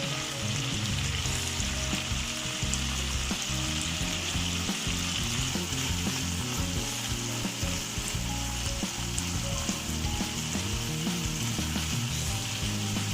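Chicken pieces with ginger-garlic paste and salt frying in oil in a pan, a steady sizzle with small scattered ticks.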